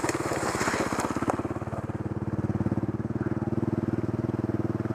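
Enduro motorcycle engine idling steadily close by, its firing rhythm even and unchanging. A hiss of noise and a couple of sharp clicks come in the first second or so.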